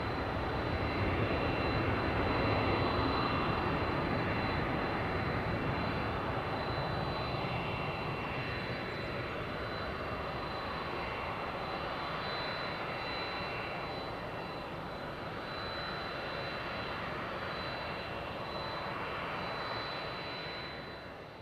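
Boeing 747-400's four jet engines at takeoff power, a broad rumble that peaks a couple of seconds in and then slowly fades as the jet moves away, with a thin steady high whine above it. The sound fades out near the end.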